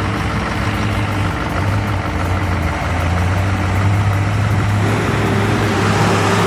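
A heavy truck's engine running steadily, a low hum over road noise.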